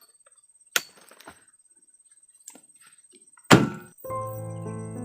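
A few heavy thuds, the loudest about three and a half seconds in, from oil palm fruit bunches being loaded onto a truck. Background music with sustained notes comes in about four seconds in.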